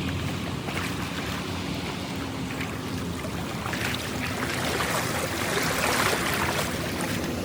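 Water rushing and splashing steadily, a full rushing noise that grows a little louder toward the end.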